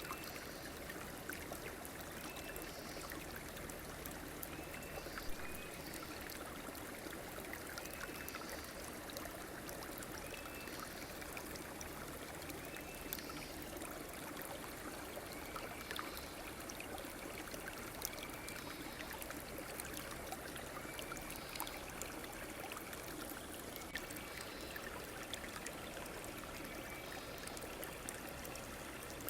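A stream running steadily, its water rushing and trickling. A short, high call repeats every second or two over the water.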